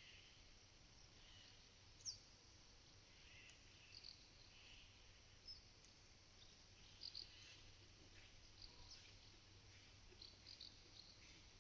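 Faint, scattered short high chirps of small birds over a very quiet pasture background, with a sharp call about two seconds in and a cluster of quick chirps near the end.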